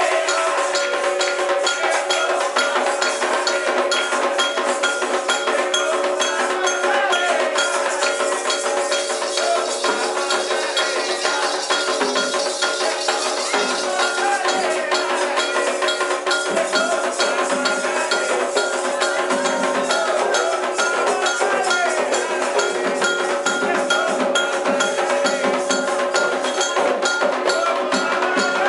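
Candomblé ritual music: fast, even percussion with rattles and a clicking wood-block-like beat, with chanting voices over it.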